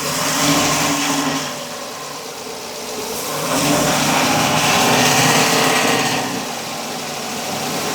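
Ford 6.2-litre gasoline V8 revved up twice to around 1500 RPM, settling back toward idle between and after. The engine has a misfire on cylinder 3.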